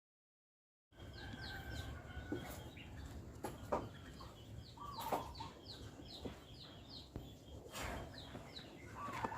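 Silence for about a second, then faint outdoor ambience: small birds chirping over and over, a chicken clucking twice, and a few light clicks.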